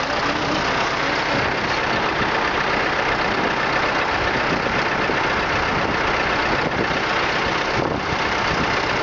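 A vehicle engine running steadily, with no change in pitch.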